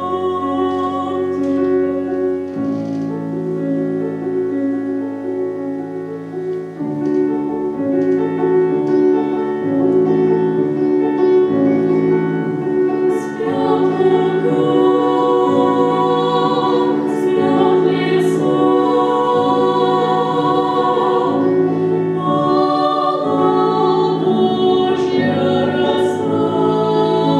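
Two female voices singing a duet in Russian with piano accompaniment, in held, legato phrases.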